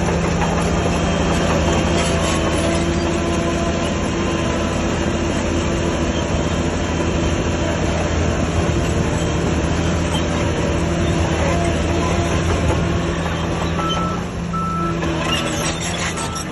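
Heavy diesel engine of earthmoving machinery running steadily under load, with a deep, even hum. Near the end the engine eases off and a high reversing beeper starts sounding in short repeated beeps.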